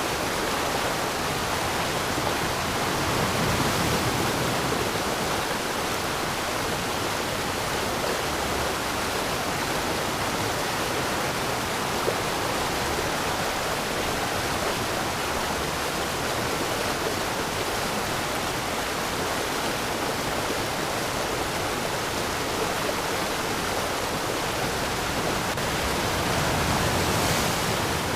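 Waterfall rushing: a steady, even roar of falling water, swelling slightly a few seconds in and again near the end.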